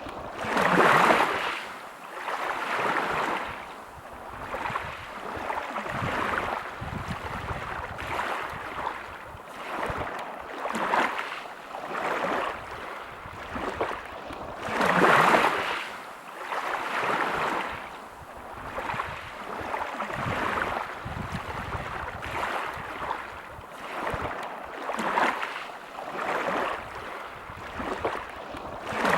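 Sea waves breaking on a pebble beach, each surge of surf rising and falling every couple of seconds, with the biggest breakers about a second in and again about fifteen seconds in.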